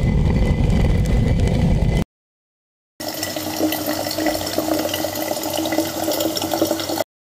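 Stone hand quern for grinding pulses being turned, a low, heavy grinding rumble of stone on stone that cuts off about two seconds in. After a second's silence a different, steadier sound with a held hum and a grittier top runs for about four seconds.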